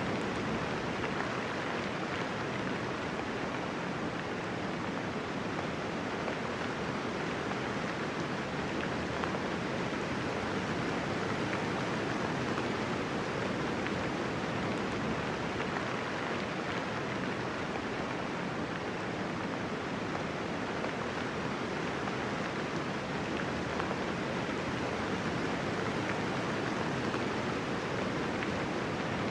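Steady light rain falling, an even hiss of many small drops with no thunder.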